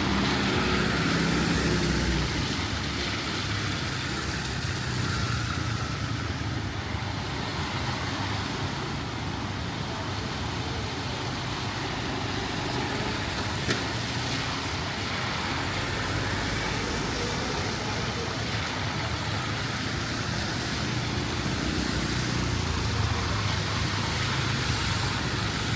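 Street traffic: a vehicle engine runs loud and close for the first couple of seconds and then fades, leaving a steady wash of road noise and the low hum of engines, with a single sharp tick about fourteen seconds in.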